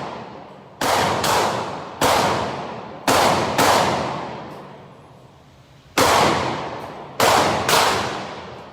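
Eight gunshots from a firearm, fired at uneven intervals in small groups, each sharp crack followed by a long echoing decay.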